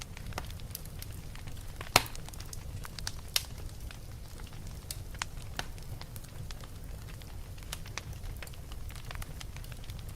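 Wood fire burning in a fireplace: a steady low rumble with scattered crackles and pops, the sharpest pop about two seconds in.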